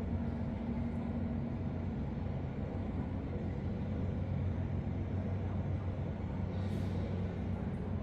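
A large engine running with a steady low drone and no change in speed, with a brief hiss about seven seconds in.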